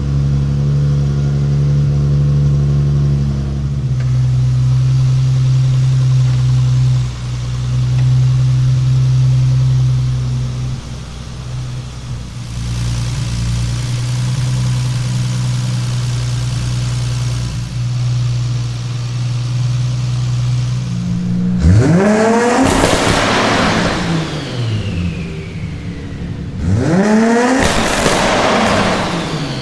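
Toyota Supra's big-turbo 2JZ straight-six running steadily, then revved hard twice: each time the pitch climbs sharply and drops back. A high whine falls away after each rev.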